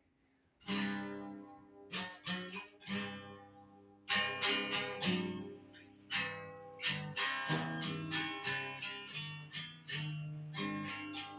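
A plucked-string instrument played solo, with picked notes and strummed chords that ring out and fade between strokes. It starts after a short quiet moment, and the strongest strokes come about a second in, around four seconds in and around seven seconds in.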